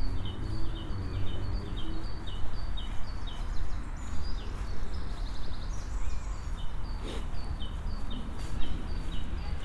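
A small songbird singing a repeated short two-note phrase, about two a second, with a brief pause midway, over a steady low rumble.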